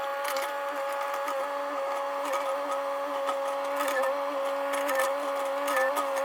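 Mini excavator running steadily, a constant mechanical whine from the engine and hydraulics, with a few light knocks here and there.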